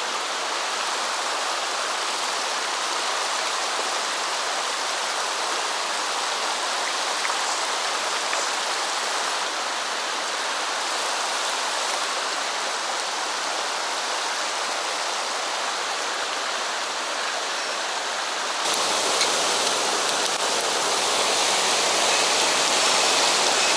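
Mountain stream running steadily over rocks. About three-quarters of the way in the water sound changes abruptly to a louder, fuller rush.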